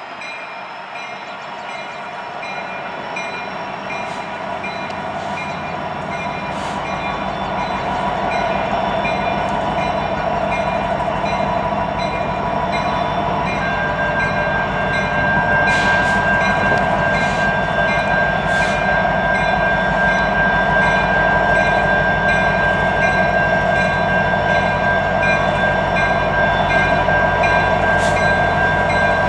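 Train running through the junction, growing louder over the first several seconds and then holding steady as it goes by, with the low drone of its engines. A steady high tone joins about halfway through and lasts to the end.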